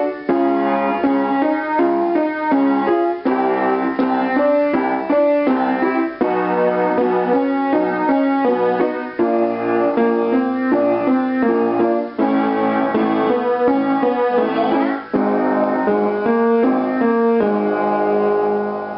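Piano playing a vocal warm-up exercise of short note patterns, with a voice humming along on a closed-lips "M" sound.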